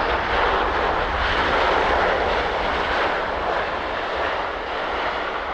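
Boeing 787-8 Dreamliner's jet engines during its arrival, a steady rushing jet noise that eases slightly near the end.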